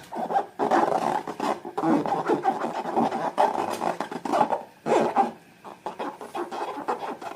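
Slime being squished and worked by hand: irregular sticky squelches and small clicks coming in uneven bursts.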